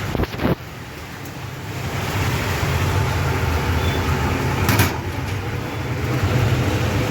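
Plastic scrap washing machine running with a steady low hum that builds over the first two seconds. A couple of knocks come at the start, and a short sharp clatter comes a little past the middle.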